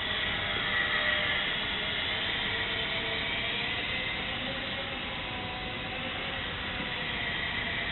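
Whine of a micro RC plane's small electric motor and propeller, its pitch wavering slightly, over a steady hiss.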